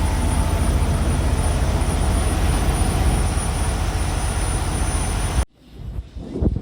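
Steady low rumble of an idling diesel truck engine with a thin high whine over it, cut off abruptly about five and a half seconds in; quieter uneven knocks and rustles follow.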